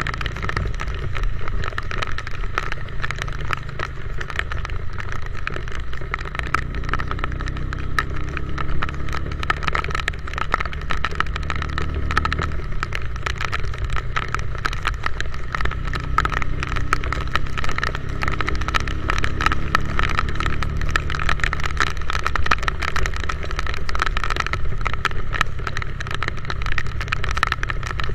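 Motorcycle engine running while riding, under steady wind and road noise on the microphone; the engine note shifts in pitch a few times.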